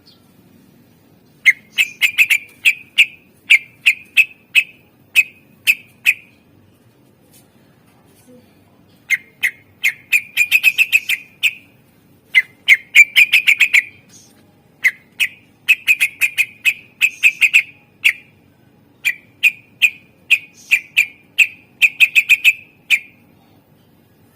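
A cucak ijo (green leafbird) singing in runs of short, sharp, rapidly repeated notes, five runs broken by pauses of one to three seconds. These are the harsh 'tembakan' phrases used as masteran to draw other leafbirds into song.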